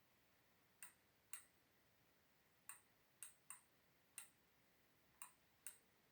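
Eight faint, sharp clicks at uneven intervals, each with a short high-pitched ring, over a low steady hiss.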